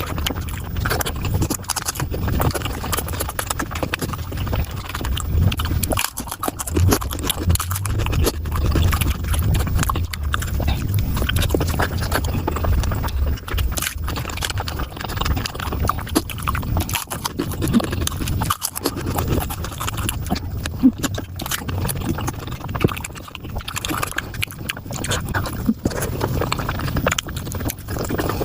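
Close-miked chewing of pork momos (dumplings), played at about five times normal speed, so the wet mouth clicks and smacks run together into a rapid, continuous patter.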